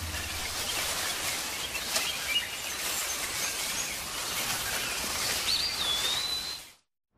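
Tropical forest ambience: a steady high hiss with scattered bird chirps, and a whistled bird call about five and a half seconds in. The sound cuts off abruptly near the end.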